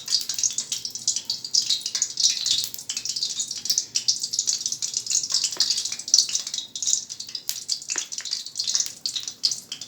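Spoonfuls of besan (gram-flour) pakora batter deep-frying in hot oil: a dense crackling sizzle with many small pops throughout.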